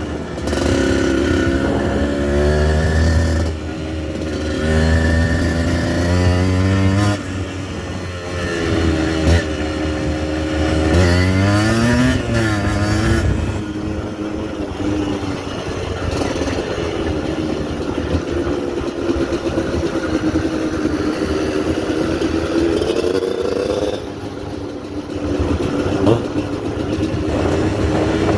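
Yamaha DT 125 two-stroke single-cylinder engine being ridden off-road. Its pitch rises and falls repeatedly as the throttle is worked through the first half, then holds a steadier, lower note.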